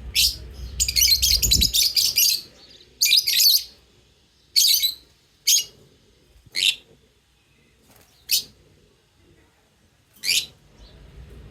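Lovebirds chirping: a rapid run of shrill chatter in the first couple of seconds, then single sharp chirps every second or two.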